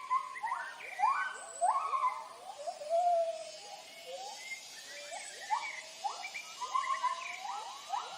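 White-handed gibbons calling in chorus: several voices overlapping in rising and falling whooping hoots, the territorial call a gibbon family uses to announce its presence.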